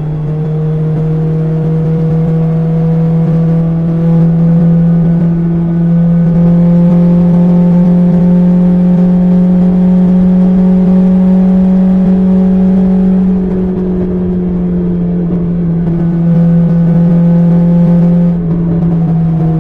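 BMW S1000XR's inline-four engine through an Akrapovic exhaust, pulling steadily under way, its pitch climbing slowly and then easing off, with a brief drop in revs near the end.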